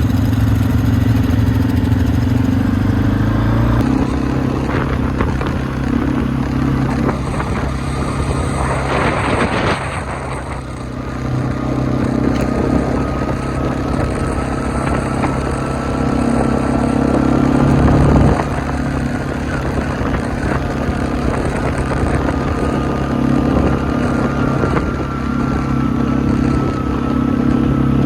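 ATV engine running steadily while riding, its pitch rising and falling with the throttle, with a brief rush of noise about nine to ten seconds in.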